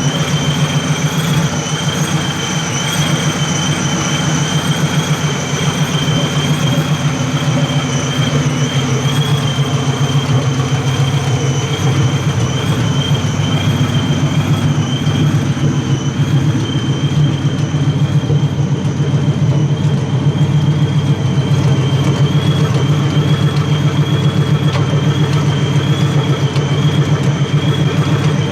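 Vortech-supercharged 4.6-litre 2V V8 of a New Edge Mustang GT idling steadily with its exhaust dumped through open cutouts straight off the X-pipe, with long-tube headers and no mufflers or resonators: a deep, loud, lumpy rumble with a thin steady high whine above it.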